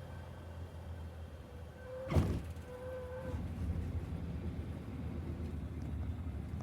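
Cessna 172G cockpit: the engine hums steadily at idle. About two seconds in the wheels hit the runway in one firm thump, the loudest sound, a firm touchdown after a bird was avoided without adding power. A steady whistling tone, the stall warning horn of the flare, sounds just before and just after the thump, and the rolling rumble grows after it.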